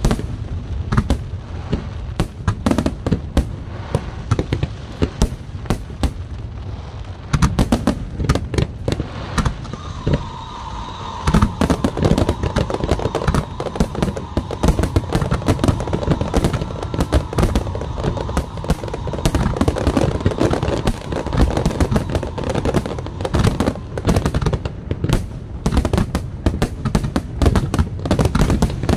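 Fireworks display: aerial shells bursting in quick succession, with many bangs and crackles throughout. A steady high tone sounds under the bursts through the middle stretch.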